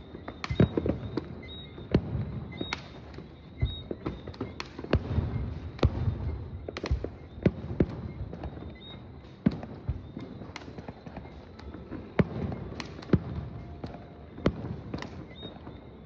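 Fireworks going off: more than a dozen sharp bangs at irregular intervals, some less than a second apart, over a low rumble between them.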